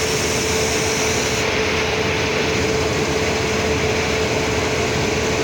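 Steady running hum of an Indian Railways passenger train, an even noise with one constant tone in it and no horn sounding.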